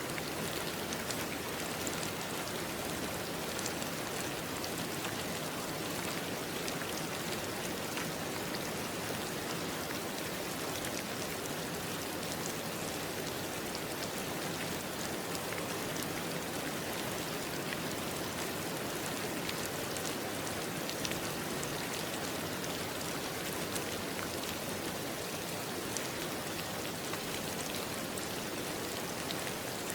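Steady rain falling, with individual raindrops pattering on a surface.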